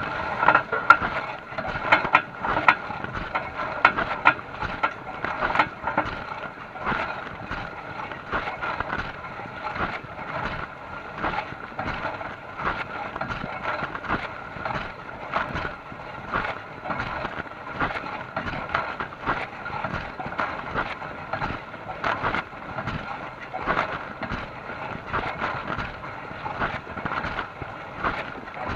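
Dishwasher running: a steady wash noise broken by frequent, irregular clicks and knocks.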